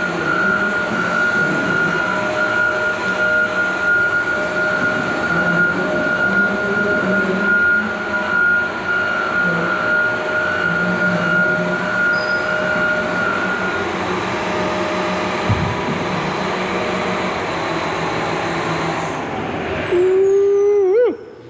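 John Deere 350G excavator running and moving, a dense mechanical din with a steady high whine over it that stops about two-thirds of the way through. Near the end a wavering tone sounds briefly before the noise cuts off suddenly.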